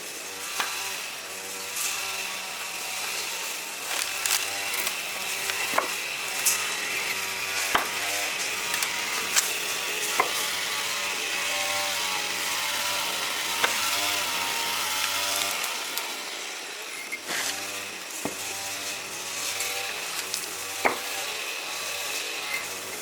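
Steady scraping of a hand tool at work, with scattered sharp taps and knocks.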